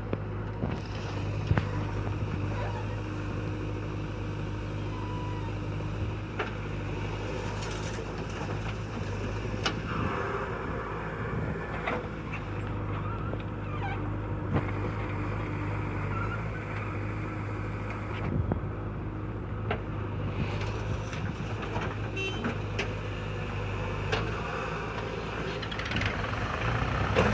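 Diesel engine of a JCB 3DX backhoe loader running steadily under working load while loading soil into a tractor trolley, with occasional short knocks and clanks. It gets a little louder near the end.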